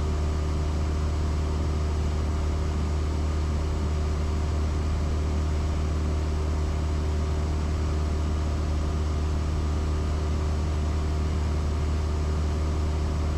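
Cessna 172S's four-cylinder Lycoming engine and propeller droning steadily in flight, a constant low hum that does not change.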